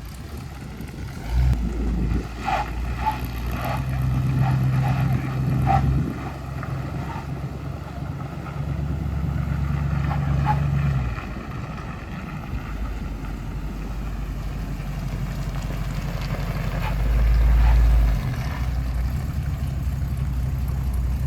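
1972 Chevrolet C10's 350 V8 pulling the truck along in four-wheel drive, its note stepping up a few seconds in and dropping back about halfway. Short tire chirps come in a quick run in the first few seconds and a few times later, the sign that four-wheel drive is engaged.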